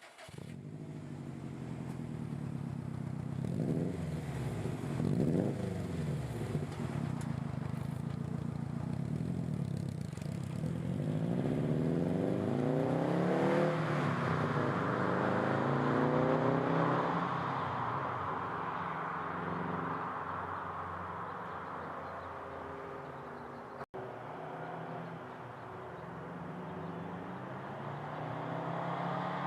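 Turbocharged 2.5-litre flat-four of a 2008 Subaru Impreza WRX STI running through a full titanium exhaust. It gives a couple of quick revs, then accelerates with a climbing engine note that is loudest about halfway through. The sound then eases off and builds again near the end, with a brief dropout a little after the three-quarter mark.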